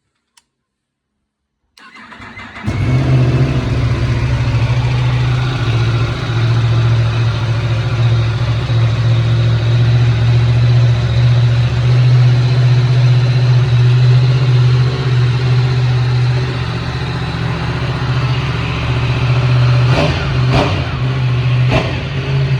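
Yamaha MT-10 SP's crossplane inline-four on its stock exhaust, cranked and catching about two seconds in, then idling steadily. A few short throttle blips come near the end.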